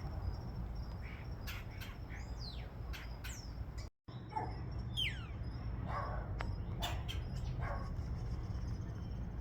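Birds calling during a fight between a starling and a woodpecker at a nest hole: several quick descending whistles and scattered short, sharp calls over a low steady background. The sound cuts out completely for a moment about four seconds in.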